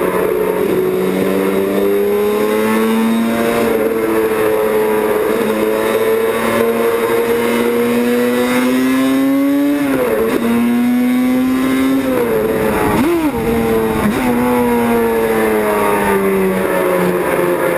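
Racing motorcycle engines running at speed, with more than one engine note overlapping. The pitch climbs slowly, then drops sharply and climbs again about ten seconds in and once more around thirteen seconds in.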